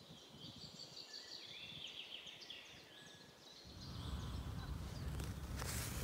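Faint birdsong, a run of quick chirping notes. About two-thirds of the way through, wind buffeting the microphone sets in as a low rumble, and there is a short rustle near the end.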